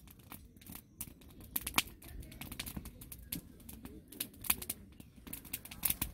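Irregular light clicks and taps, a few of them sharper and louder, over a faint steady background.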